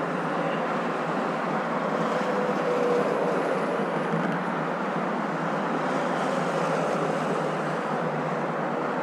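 Steady road and engine noise of a moving car, an even rushing hum with no deep bass, and a faint tone rising slightly about two to three seconds in.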